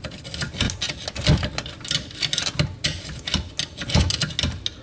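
Flathead screwdrivers clicking and scraping against the teeth of a seized dishwasher motor, irregular metal ticks several times a second, as the locked-up motor is worked loose by hand.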